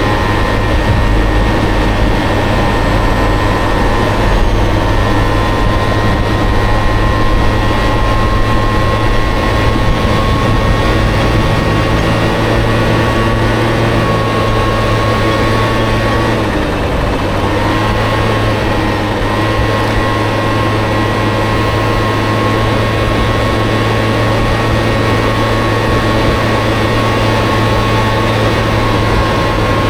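Honda Motocompo's swapped-in Honda Dio two-stroke scooter engine running steadily on the move, its note dropping briefly about 16 seconds in and then steadying again.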